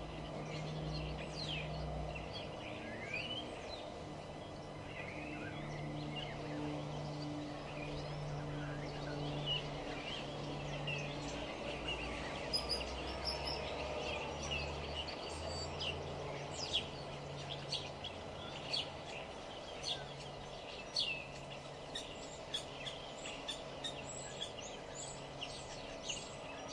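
Songbirds chirping and calling, short sharp notes that come thicker and louder in the second half, over a low background hum.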